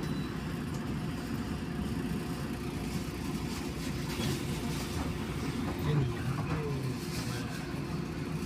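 Local train running: a steady rumble with a constant faint hum throughout.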